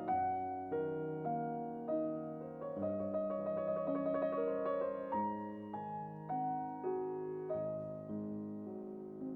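Background piano music: slow single notes, each struck and left to fade, with a short run of quicker notes about three seconds in.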